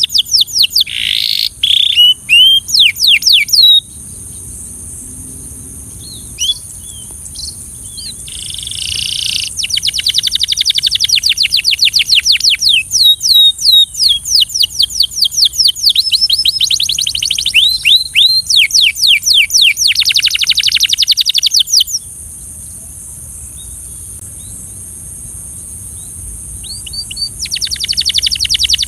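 Canary singing in long, fast trills of rapidly repeated notes, in several phrases. The song breaks off for a few seconds near the start and again for about five seconds in the second half, leaving a steady high-pitched hiss underneath.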